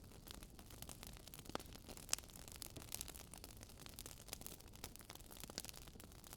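Faint crackling of a wood fire: irregular small pops and snaps over a low steady hiss.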